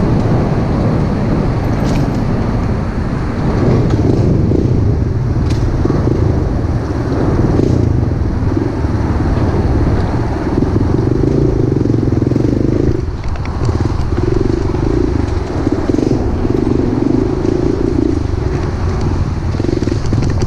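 Pit bike engine running as the bike is ridden, its note rising and easing with the throttle. The engine drops off briefly about two-thirds of the way through, then picks up again.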